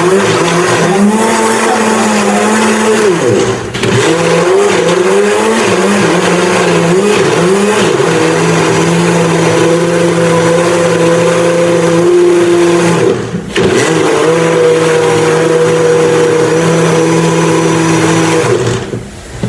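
Countertop blender motor running loaded with a thick tomato, carrot and capsicum mix and little water; its pitch wavers as the mix churns, then holds steady. It drops out briefly twice, just before 4 s and about 13 s in, and stops just before the end.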